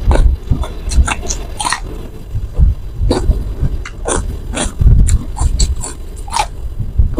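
Close-miked eating sounds: wet chewing and lip smacking, with crisp bites into raw cucumber dipped in chilli sambal. The clicks come in short, irregular clusters.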